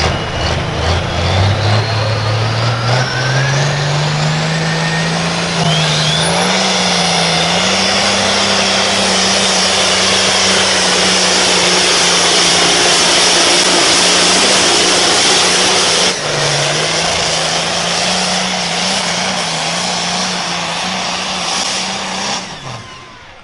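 A pulling vehicle's engine at full load dragging the sled down the track. The revs climb over the first several seconds while a high whine rises above them, then hold steady at high rpm for about fifteen seconds, and the sound drops off suddenly near the end as the throttle is let off.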